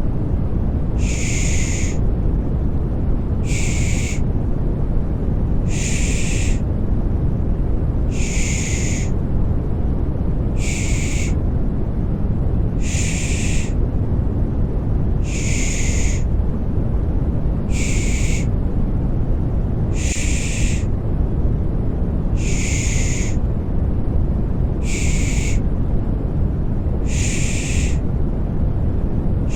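Rhythmic 'pış pış' shushing: a hissing 'shh' repeating about every two and a half seconds over a steady, low, rumbling white-noise bed, a lulling sound for settling a baby to sleep.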